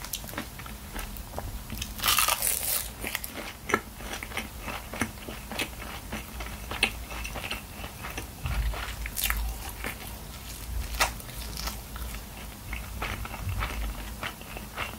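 Close-miked eating sounds: a crisp crunch about two seconds in as a mouthful wrapped in dried seaweed is bitten, then steady chewing with many small wet clicks and crackles.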